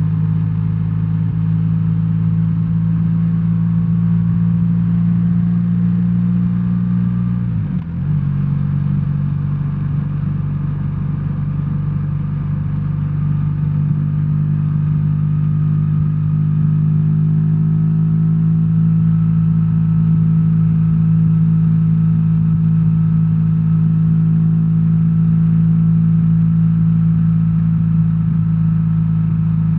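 BMW R1300R's boxer-twin engine running steadily under way, with one brief dip in the engine note about eight seconds in.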